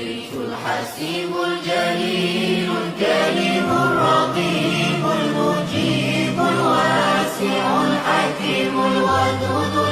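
Unaccompanied voices singing a layered, choir-like chant with long held notes, a vocal nasheed sung without instruments.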